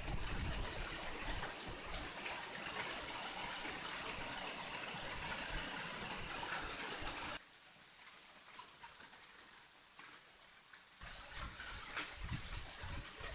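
Heavy storm downpour: a steady rushing wash of falling water, with wind rumbling on the microphone. It drops abruptly to a quieter wash about seven seconds in and comes back strongly about four seconds later.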